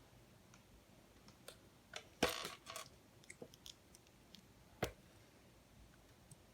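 Plastic LEGO Technic pieces being handled and snapped together: scattered light clicks, a louder click with a brief rattle about two seconds in, and another sharp click near five seconds.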